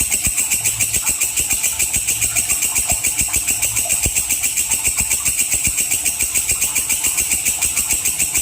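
A walang kecek, a singing grasshopper used to tutor songbirds, calling in a continuous high, shrill trill of rapid, evenly spaced pulses, several a second.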